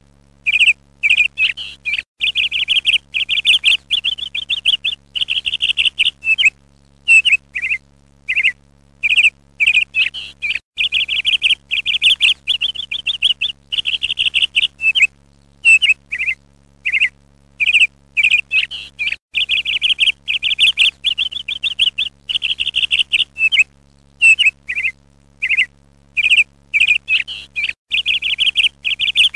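Songbird chirping in fast trills and short single chirps, coming in bouts a second or two long with brief gaps between, over a faint steady low hum.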